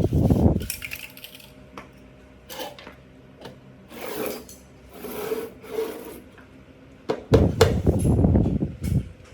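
Scraping and rubbing noise in bouts: a loud stretch right at the start, several short strokes in the middle, and a longer loud stretch from about seven seconds in.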